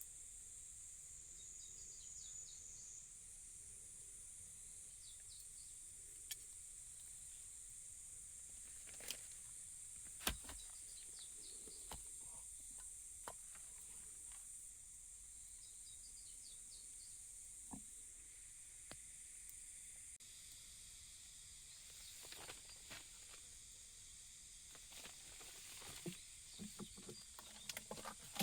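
Faint outdoor ambience: a steady high-pitched insect drone, with short bird chirps now and then. Scattered small clicks and knocks of handled gear, the loudest about ten seconds in, and more of them near the end.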